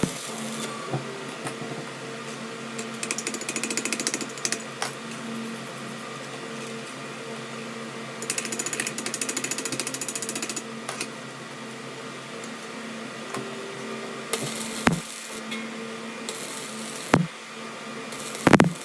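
A workshop machine running with a steady hum, with two spells of fast, even rattling and a few sharp knocks near the end.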